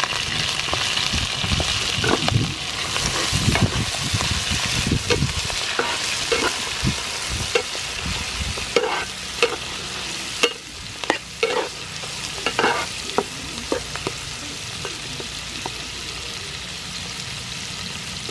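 Clam meat sizzling in hot soybean oil with chopped garlic in a nonstick frying pan, a steady hiss that is strongest at first and settles lower later on. A metal spatula stirring the clams scrapes and clacks against the pan through the middle, with a few sharper knocks.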